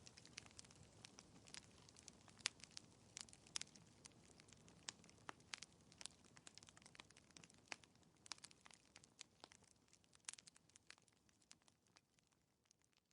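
Wood fire crackling: irregular sharp pops and snaps over a faint low hiss, thinning out near the end.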